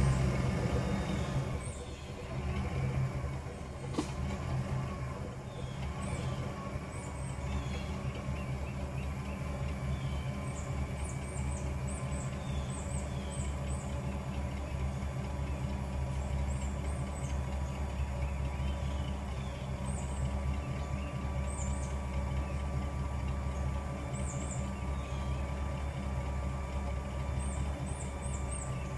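Ford 302 V8 in a 1991 Ford LTD idling through its stock exhaust just after a cold start. The start-up flare fades over the first couple of seconds into a steady low idle.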